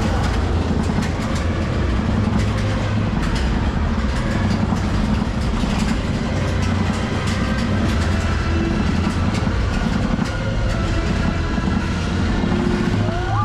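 Space Mountain roller coaster train rumbling and clattering along its track in the dark, heard from on board, with many sharp clicks over a steady low rumble.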